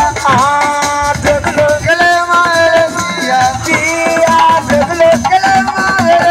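Live Senegalese assiko band music: a held, wavering melody line over drums and rattling shakers.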